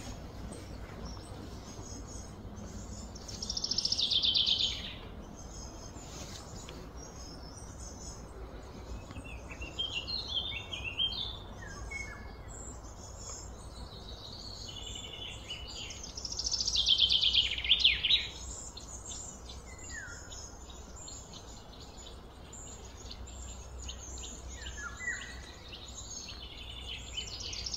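Birds calling: a loud, fast trill that slides down in pitch comes three times, about 4 s in, about 17 s in and near the end, with short scattered chirps between, over a steady low background hum.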